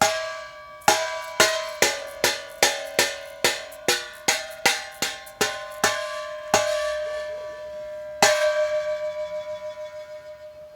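Vintage Speed muffler for a late VW Type 4 engine tapped repeatedly, about two to three taps a second, each one ringing metallically, then a last tap about eight seconds in that rings on. The muffler rattles: a defect.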